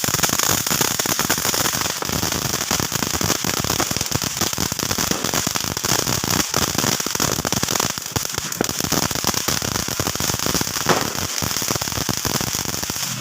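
Fountain firework spraying sparks with a steady hiss and dense, rapid crackling.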